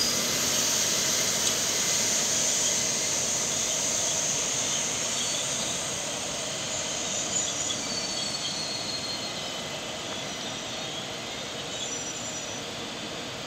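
ICE high-speed train rolling along the station tracks, its running noise slowly fading, with faint brief wheel squeals about four seconds in and again near the end.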